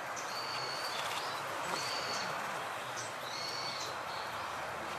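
A small songbird calling: a thin, high, level note of about half a second, repeated three times at roughly one-and-a-half-second intervals, over a steady background hiss.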